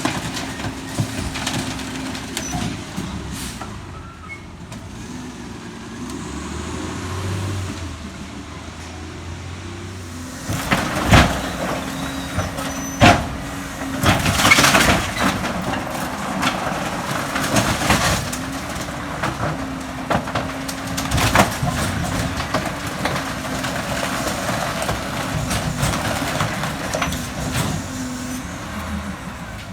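McNeilus rear-loader garbage truck on an Autocar ACX chassis, running with a steady hum. From about ten seconds in, its packer crushes bulky waste in the hopper, with several loud bangs and cracks and a stretch of crunching.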